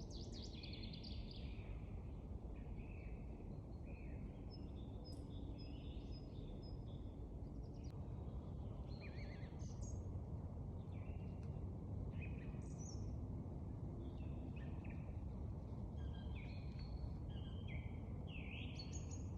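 Several songbirds chirping and trilling, call after call, over a steady low rumble of outdoor background noise.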